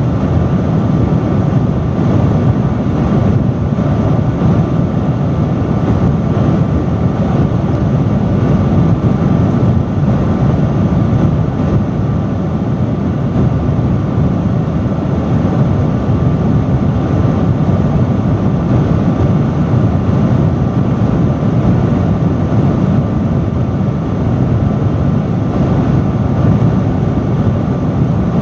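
Industrial fan running steadily at a loud level: a constant rush of air, heaviest in the low range, with a faint steady whine above it.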